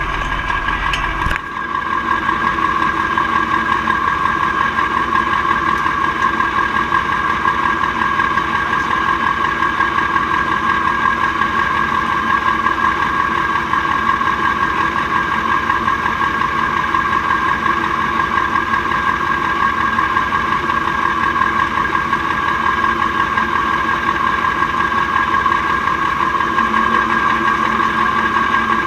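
Mack R-series V8 diesel truck engine idling steadily at an even pitch, with no revving. There is a brief change in the sound about a second in.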